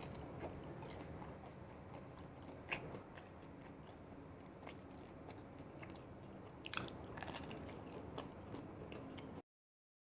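Close-miked mouth sounds of a person biting and chewing a battered fried fritter, with scattered sharp crunches and mouth clicks over steady chewing. The sound cuts off suddenly near the end.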